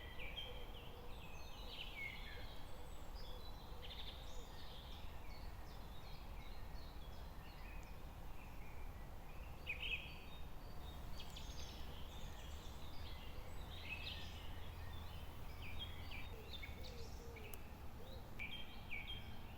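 Small birds chirping and singing, many short overlapping calls throughout, over a steady low background rumble.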